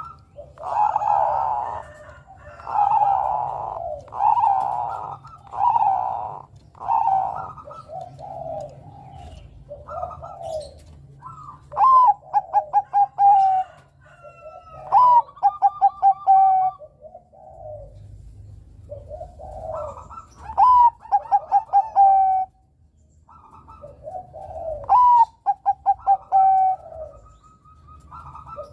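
Zebra dove (Bangkok-type perkutut) cooing. It opens with five short, rough coos about a second and a half apart, then four times gives its song: a run of quick staccato notes sliding into a long held coo.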